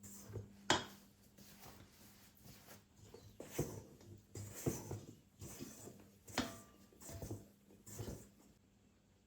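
Irregular light knocks and clicks of objects being handled, about one a second, over a faint steady hum; the knocks stop about eight and a half seconds in.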